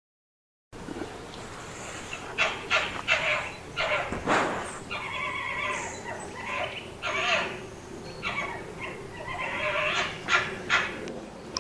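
An animal calling in a run of many short, pitched calls that rise and fall, starting about a second in.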